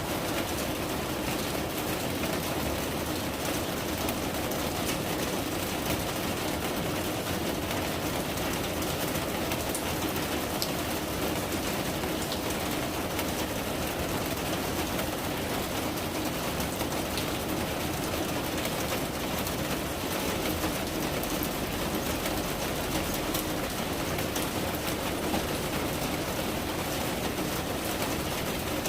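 Steady rain falling: an even hiss with scattered small ticks of individual drops.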